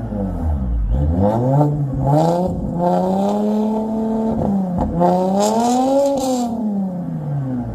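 BMW engine through its exhaust, revved up and dropping back several times in a row, the pitch rising and falling with each rev, with short hissing bursts at the high points.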